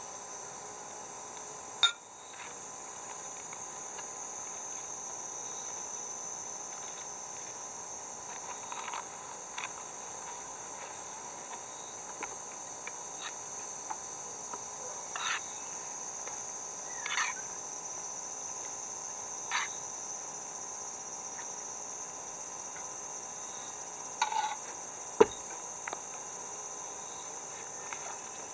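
Steady, high-pitched chorus of summer insects, with a few short scattered sounds over it and one sharp click near the end.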